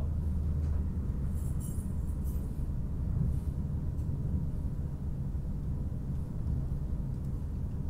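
High-speed train running at speed, heard from inside the passenger cabin: a steady low rumble, with a few faint high clinks about two seconds in.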